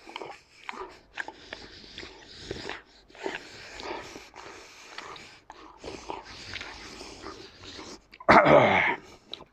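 Close chewing and crunching of pizza in irregular bursts, then about eight seconds in a loud, short animal cry with a falling pitch.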